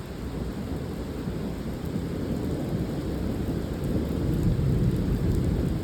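Heavy rain falling in a thunderstorm, with a low rumble of thunder that slowly builds and grows louder toward the end.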